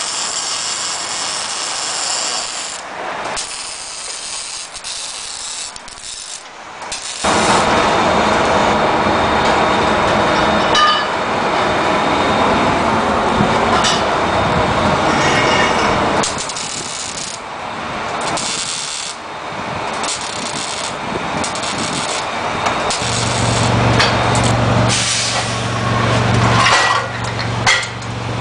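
Exhaust-shop work noise: a hissing tool at first, then several seconds of loud rushing, rasping noise from a power tool. Near the end a steady low hum begins.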